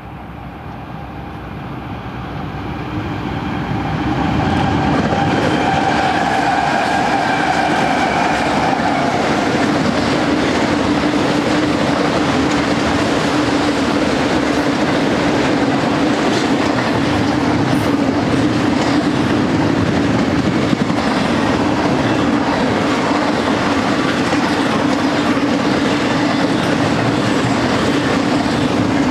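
A freight train's GE diesel locomotives grow louder as they approach and pass, with an engine hum and a pitched whine at the head end. Then a long double-stack container train rolls steadily by, its wheels rumbling and clacking over the rail joints.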